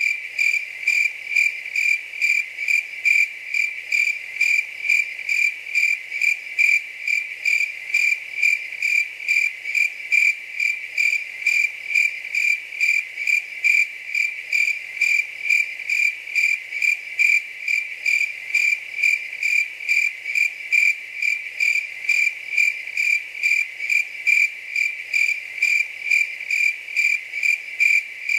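A cricket chirping steadily, one high clear chirp repeated evenly about twice a second.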